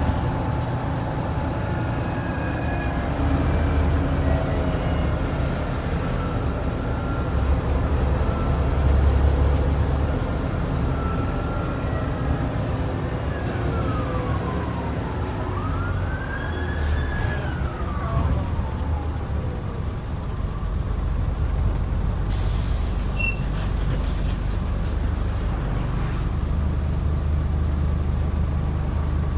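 Scania N94UD double-decker bus running under way: the 9-litre DC09 diesel rumbles steadily, a little louder around a third of the way in, with thin whining tones from the driveline that slide up and down in pitch.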